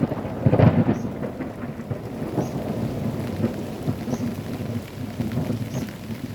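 Thunder rumbling during a thunderstorm, loudest about half a second in and then dying away, over rain pattering steadily.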